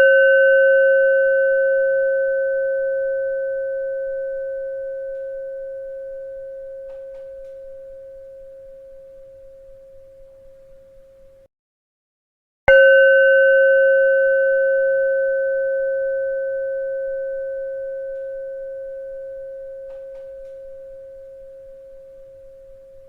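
A bell rings out with a steady, pure tone and slowly dies away; about eleven seconds in the ringing cuts off abruptly, and after a second of silence the bell is struck again and rings on, decaying.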